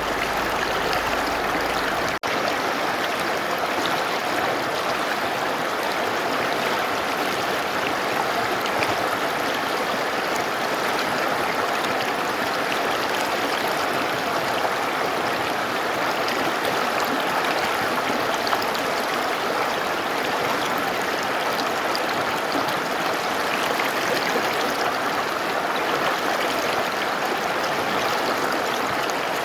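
Mountain river rushing steadily over rocks, an even, full water noise, with a momentary break in the sound about two seconds in.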